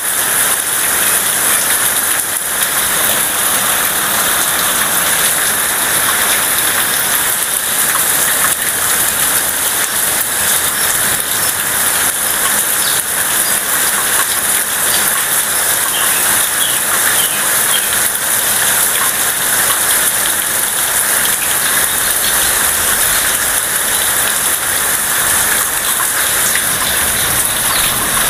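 Heavy tropical rain falling steadily and hard on a leafy shrub, without a break.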